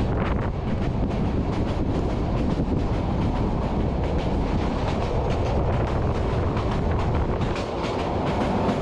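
Passenger train coaches (Indonesian-built PT INKA stock) running at speed, heard from a camera mounted on the outside of a coach: a steady rumble of wheels on rails with frequent clicks and clatter.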